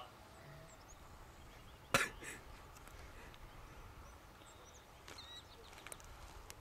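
Faint field background with a few short bird chirps about five seconds in, and one sharp knock about two seconds in, the loudest sound.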